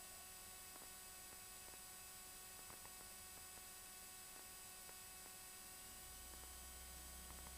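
Near silence: a faint steady hiss and hum, with a few faint ticks.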